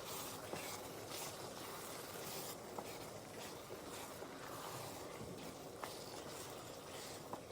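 Paneer tomato curry simmering in a pan: a steady low hiss with small irregular sputters and a few faint pops.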